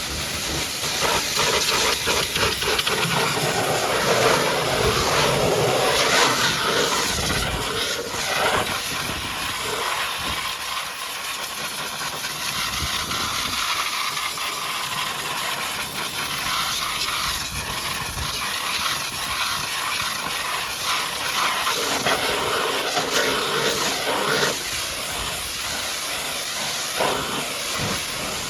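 High-pressure water jet from a pressure washer spraying against a muddy truck: a continuous loud hiss whose tone shifts every few seconds as the spray strikes different parts.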